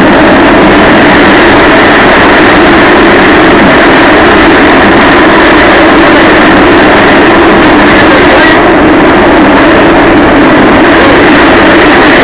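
Passenger train running, heard from inside the carriage as a loud, steady rumble and roar. One brief sharp hiss or click comes about eight and a half seconds in.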